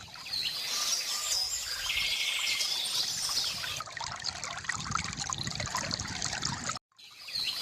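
Small birds chirping and trilling over gurgling, trickling river water. Near the end the sound cuts out for a moment and fades back in.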